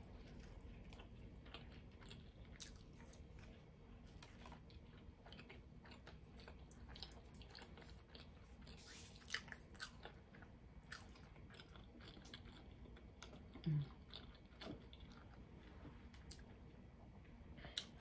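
Faint chewing and mouth sounds of a person eating chicken nuggets, with soft scattered clicks throughout and a brief low throat sound about fourteen seconds in.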